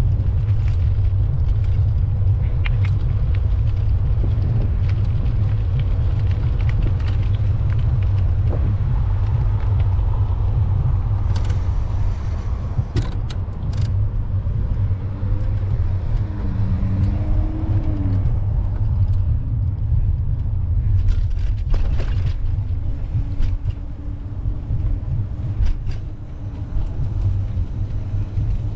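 Steady low rumble of outdoor street ambience, with a few sharp clicks and a brief wavering tone a little past the middle.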